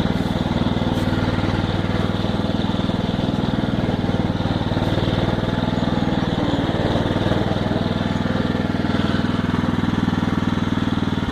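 Small single-cylinder-type engine of a ride-on lawn tractor running steadily while it is driven.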